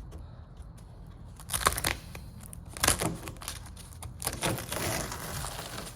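HO scale model railroad track being pried up off the layout: a few sharp cracks, about a second and a half apart, as it breaks loose, then scraping and tearing near the end.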